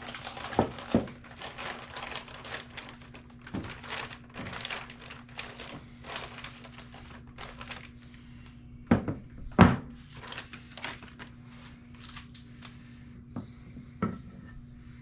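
Scattered light clicks and knocks with two louder thumps about nine and ten seconds in, over a steady low electrical-sounding hum.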